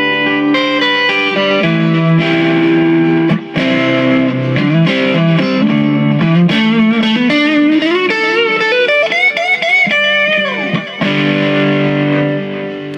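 Squier Classic Vibe Stratocaster played through a Donner boost pedal, an overdrive and a delay into a Fender Excelsior amp. Overdriven chords are followed by a run of bent single notes, and it ends on a chord that rings out and fades.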